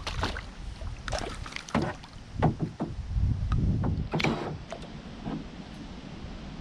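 Wind rumbling on the microphone, with a string of short splashes and knocks from a canoe on the water, the loudest about two and a half and four seconds in.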